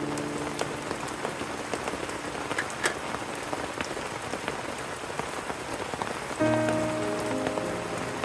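Steady rain falling, an even hiss with a few sharp drips standing out. Background music fades in again about six seconds in.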